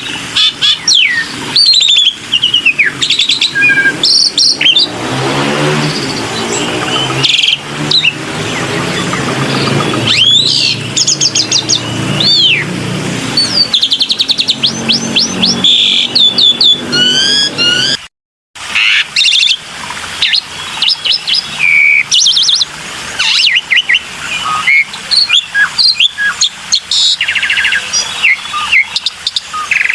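Jalak putih (black-winged starling) singing loudly: a varied run of whistles, gliding notes, fast chattering trills and harsher rasping phrases. There is a brief gap of silence about two-thirds of the way through.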